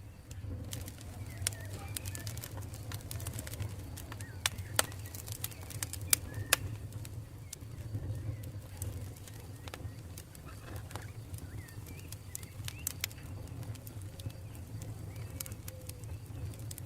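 Campfire crackling, with sharp pops of burning wood scattered throughout and a cluster of the loudest pops around the middle, over a low steady rumble.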